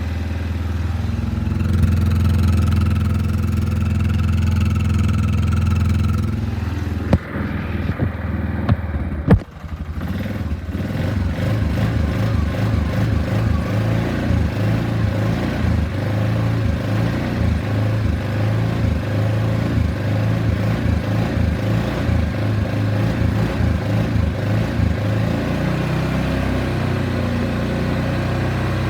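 2003 Yamaha Kodiak ATV's single-cylinder four-stroke engine running on choke after a cold start: a steady idle for the first six seconds or so, then a few sharp clicks around seven to nine seconds in, after which it settles into an uneven, pulsing idle.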